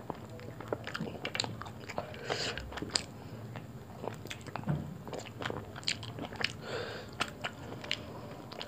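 Close-miked chewing and lip-smacking of a person eating roti with curry by hand: a steady run of short mouth clicks and smacks, with a couple of longer moist sounds around a third of the way in and near the end.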